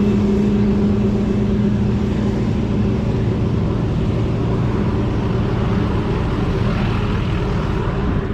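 Vehicle engine running steadily with a low rumble and a pitched drone that fades out about six to seven seconds in.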